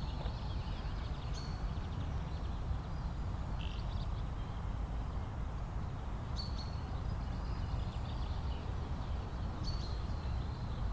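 Outdoor lakeside ambience: a steady low rumble with a few short, high bird calls a few seconds apart.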